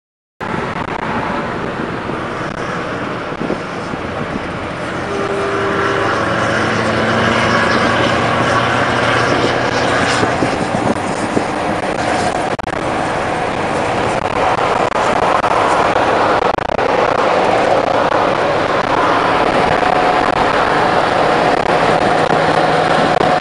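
Scania R730's 16-litre V8 truck engine pulling hard under throttle while overtaking on a motorway, mixed with rushing road and wind noise. It gets louder about six seconds in and stays loud.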